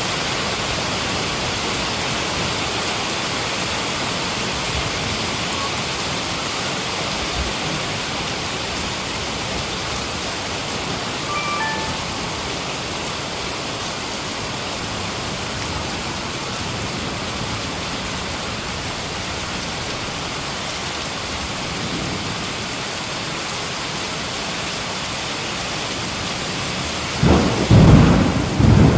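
Heavy rain falling steadily. Near the end a loud thunderclap breaks in and rumbles on.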